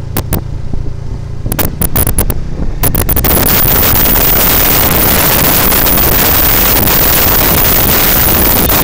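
Wind buffeting the microphone of a camera on a moving motorcycle. A low engine-and-road rumble with scattered crackles comes first. About three seconds in, a loud, steady wind roar takes over and covers everything else.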